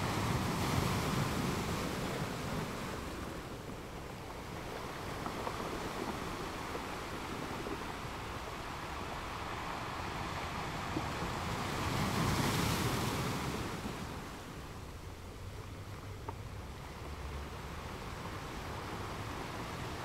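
Ocean waves breaking on a sandy shore: a steady wash of surf that swells with a louder breaker just after the start and another about twelve seconds in.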